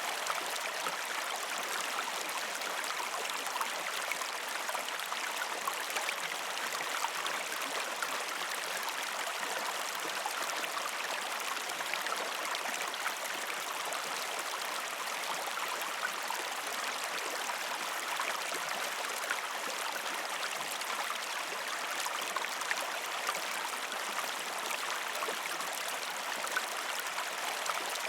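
A gentle river stream flowing steadily over rocks, an even rush of water with many small splashes through it.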